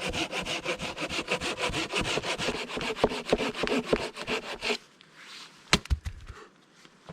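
Hand saw sawing through damp firewood for a campfire, in fast, even back-and-forth strokes, about five a second. The sawing stops near five seconds in, and a couple of sharp knocks follow.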